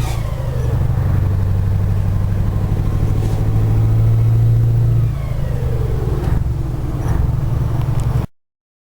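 Scania 143 450's V8 diesel engine running under load with a deep, steady note. Twice, at the start and about five seconds in, the revs drop with a falling whine. The sound cuts off suddenly about eight seconds in.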